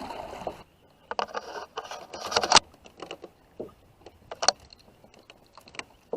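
Water washing against a kayak that stops within a second, then scattered knocks and rattles of a paddle and gear being handled in the kayak, loudest about two and a half seconds in.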